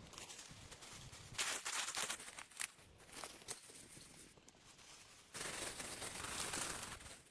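Rustling and crunching of dry leaves and twigs, in two bouts, the second longer and steadier, with scattered snaps between them.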